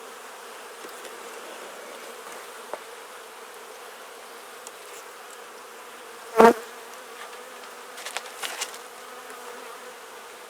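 Honeybee colony humming steadily from an open Langstroth hive during an inspection. A short, loud burst of sound comes about six seconds in, and a few light clicks follow near eight seconds.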